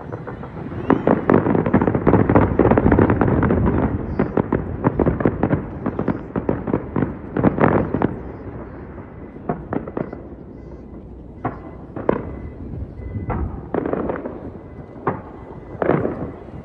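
Fireworks bursting: a dense, rapid crackle of many shells over the first few seconds, then thinning to scattered single bangs about a second apart.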